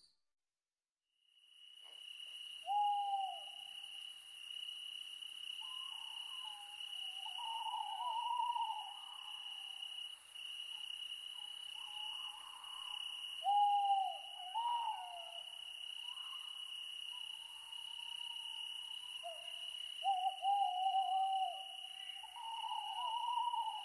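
Owl hooting several times in wavering, drawn-out calls over a steady high-pitched insect trill, the sound coming in after about a second and a half of silence.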